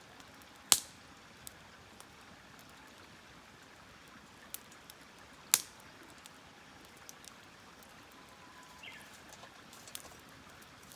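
Campfire burning: wood crackling with scattered small ticks and two sharp, loud pops, one just under a second in and one about five and a half seconds in.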